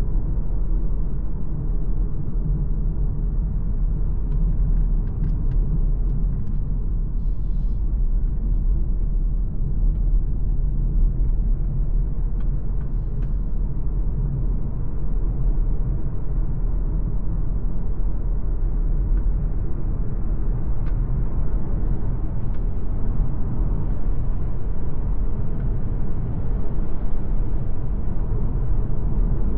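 MG ZS Hybrid+ driving on the road: a steady low rumble of tyres, wind and drivetrain, growing slightly louder near the end.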